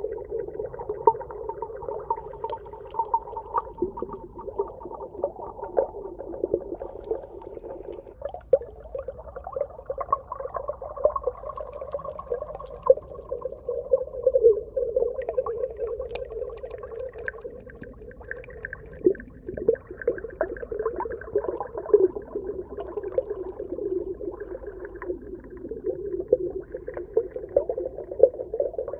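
Underwater soundscape: dense crackling and popping, gathered in a band that drifts slowly in pitch, with occasional sharper pops.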